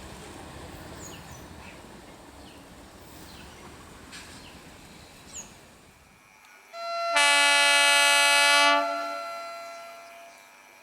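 The rumble of a passing EMU train fades away, then about seven seconds in an electric train's horn sounds one loud blast of about two seconds.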